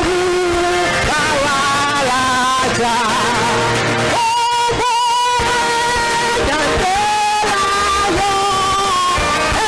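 Choir singing a worship song with instrumental accompaniment, in long held notes with vibrato.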